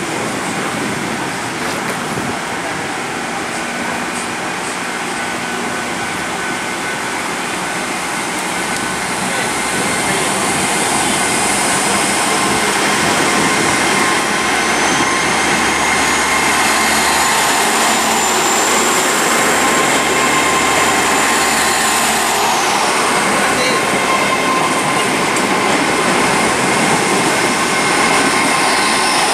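Great Western Railway Class 802 bi-mode train pulling into the station, its running noise steady with several held tones and growing louder about ten seconds in. A high whine climbs slowly and then falls away about three-quarters of the way through.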